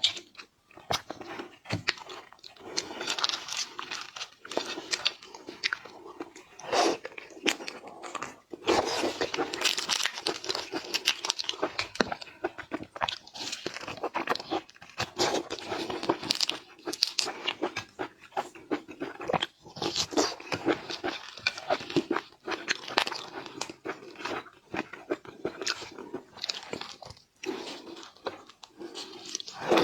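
Shellfish being eaten: repeated irregular crunching bites and chewing, one after another throughout.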